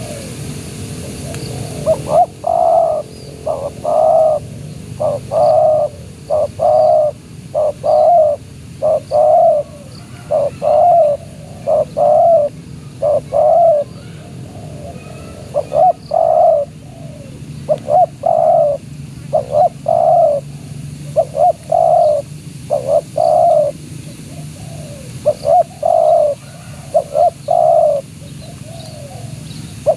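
Spotted dove (tekukur) cooing: loud, repeated two- and three-note coo phrases, one after another every second or so, starting about two seconds in.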